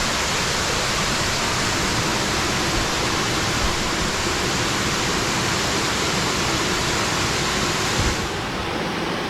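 Small natural waterfall pouring into its pool: a steady rush of falling water, its hiss dulling slightly about eight seconds in.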